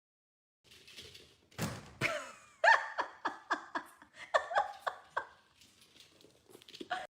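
A thud, then a person laughing in a run of short bursts.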